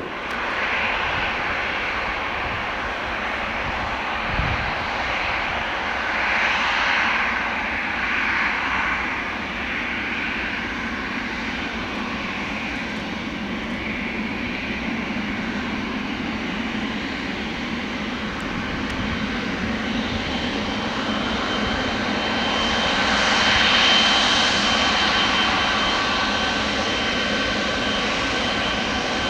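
Boeing 777 freighter's twin GE90 jet engines running as it departs: a steady jet rush that swells twice, the second time late on, with steady whining tones coming in from about two-thirds of the way through.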